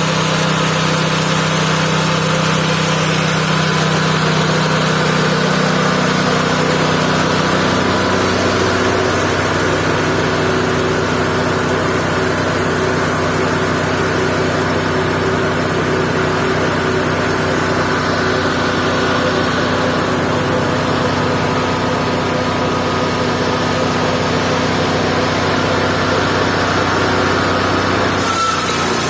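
Mobile band sawmill running steadily under power; its pitch drops about eight seconds in.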